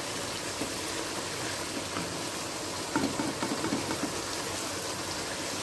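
Boiled eggs frying in thick korma masala and oil in a wok: a steady sizzling hiss, at the stage where the oil has risen to the top and the masala is cooked. There are a few light knocks of the spatula against the pan about three seconds in.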